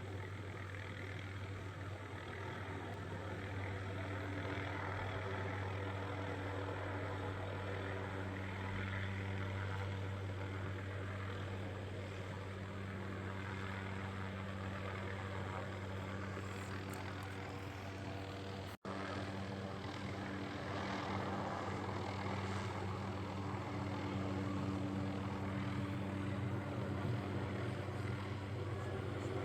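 Helicopter running with a steady low drone and a wash of rotor and engine noise. The sound cuts out for an instant about two-thirds of the way through, then resumes unchanged.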